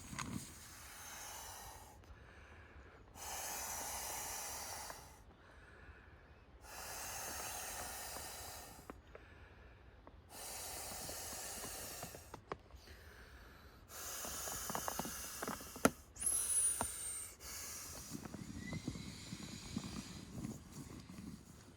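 Air rushing in repeated pushes of about two seconds each, six in a row with short pauses, consistent with a packraft being inflated. A sharp click and a brief falling whistle come near the end.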